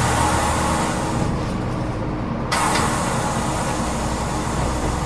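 Scania K270UB city bus with its Scania DC9 diesel running low and steady; the high road hiss fades away as the bus slows, then a sudden hiss of compressed air breaks in about halfway through.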